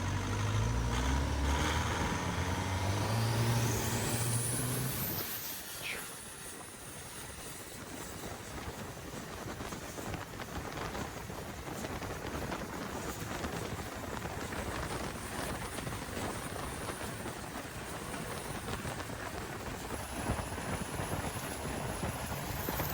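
Turbocharged Thai longtail racing-boat engine running hard, with a whine rising steeply in pitch a few seconds in. About five seconds in the clear engine note gives way to a steady, dense rushing noise of the boat at speed.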